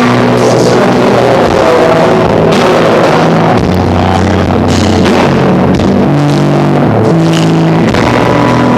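Live rock band playing loud and distorted, with electric guitar, bass and drums and no vocals in this stretch.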